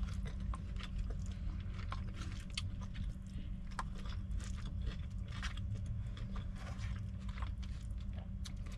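Close-up chewing and mouth sounds of someone eating steak, peppers and rice, with the fork scraping and tapping in a paper bowl: many short irregular clicks over a steady low hum.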